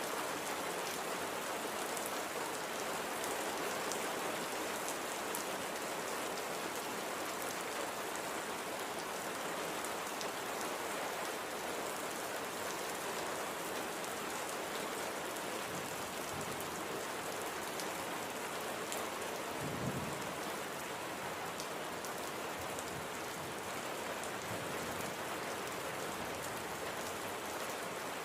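Steady light rain falling on a surface, an even hiss with many small drop ticks. A brief low thump about two-thirds of the way through.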